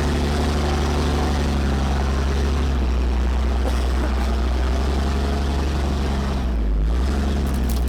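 Ram 5500 wrecker's Cummins turbo-diesel engine running steadily under load as the truck climbs rough off-road ground. The engine note dips briefly about two-thirds of the way through.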